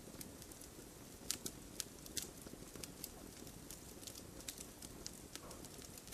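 Wood campfire burning, a steady low rumble with sharp, irregular crackles and pops from the burning wood.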